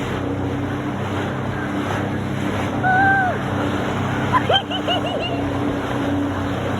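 Jet ski engine running steadily at speed, with rushing water and wind noise. A short held vocal call comes about three seconds in, and a quick run of short yelps follows around four and a half seconds.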